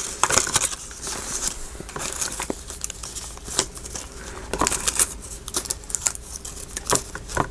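Decorative craft butterflies and paper being sorted by hand: irregular crinkling and rustling with small clicks.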